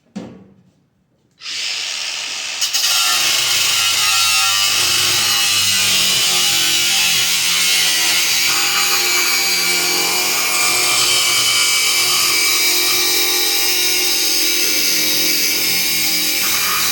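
Angle grinder spinning up about a second and a half in, then cutting through a seized steel nut: a loud, steady grinding with a high whine.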